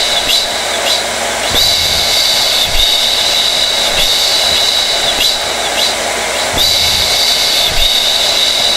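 Hair dryer running steadily: a rush of blown air with a high whine that swells and eases in a repeating cycle every few seconds.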